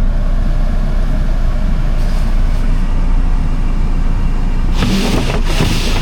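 A car engine idling with a steady low rumble, and about five seconds in a loud rushing, hissing noise that stops and starts again.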